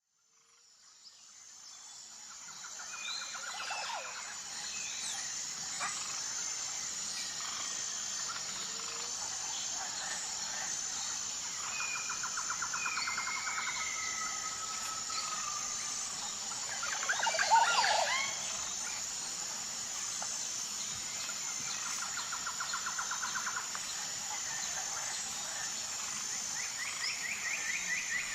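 Outdoor nature ambience: a steady high, pulsing chirr of insects under birds calling, with several short repeated trills and a louder burst of bird calls a little past the middle. The sound fades in over the first few seconds.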